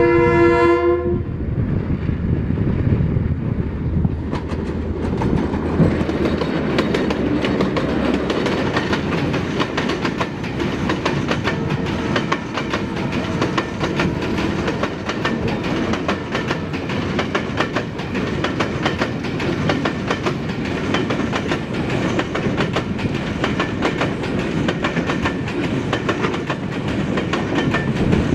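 A diesel locomotive horn sounds and cuts off about a second in. A pair of GMCU-15 diesel locomotives then run past at about 58 km/h, followed by a long train of high-sided bogie freight wagons. The wagons roll by with a steady rumble and a rapid clickety-clack of wheels over the rail joints.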